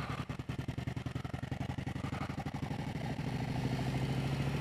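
Motorcycle engine running at low speed as the bike pulls away, its firing pulses coming through as a fast even beat, getting a little louder about three seconds in.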